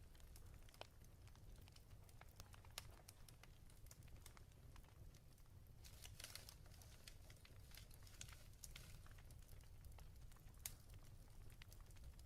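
Faint crackling of a wood fire in a fireplace: sparse, irregular pops and snaps, with a brief hiss about six seconds in, over a steady low rumble.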